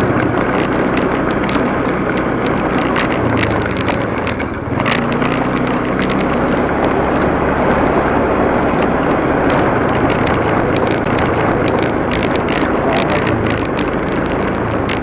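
Motorcycle engine running steadily while riding, with rushing wind noise over it; the sound drops briefly about four and a half seconds in.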